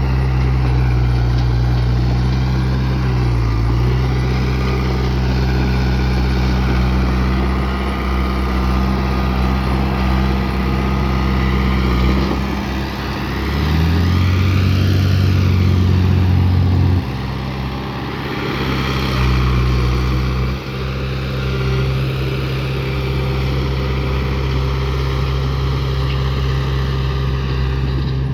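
Heavy diesel engine of a bulldozer running steadily under load. About halfway through it dips briefly, then runs harder and louder for a few seconds before dropping back suddenly.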